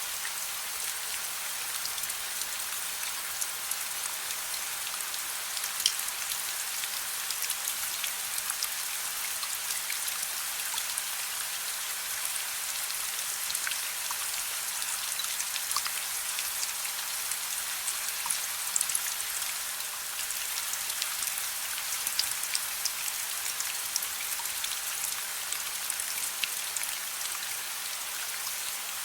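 Steady rain falling: a dense, even hiss with many sharp drop ticks scattered through it, a few louder ones about six seconds in and around eighteen seconds.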